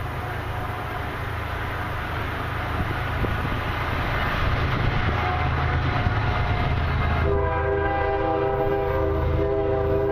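Freight locomotive approaching, its engine rumble and rolling noise growing louder, then the locomotive's air horn sounds a steady multi-note chord about seven seconds in and holds it.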